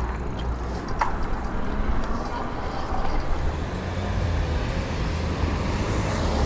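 Road traffic noise: passing cars running, with a steady low rumble and a single sharp click about a second in.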